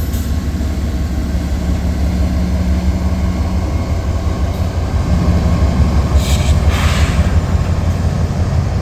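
Norfolk Southern diesel freight locomotive passing close, its engine rumbling deep and steady, with a brief hiss about two-thirds of the way through.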